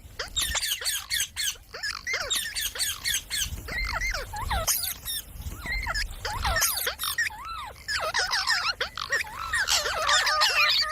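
Parrots chirping and squawking in quick, overlapping calls throughout, thickest near the end.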